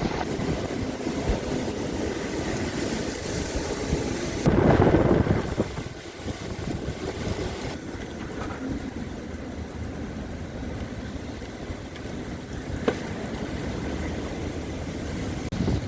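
Strong wind blowing and buffeting the microphone, rising to its loudest gust about four and a half seconds in before easing back to a steady rush. A single sharp click sounds near the end.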